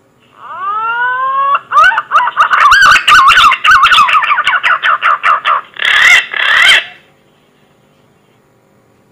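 Green pigeon (punai) song played as a lure call: a few rising whistles, then a fast run of warbling whistled notes with clicks, ending in two louder notes and stopping about seven seconds in.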